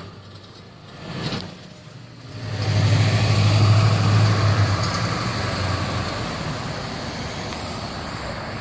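A motor vehicle's engine drawing near and passing on a city street: a steady low hum that swells about two and a half seconds in, holds for a couple of seconds, then slowly fades into traffic noise.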